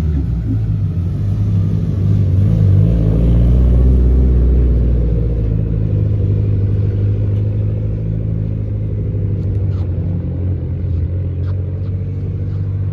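A vehicle engine running steadily with a deep rumble, swelling to its loudest about four seconds in, then settling.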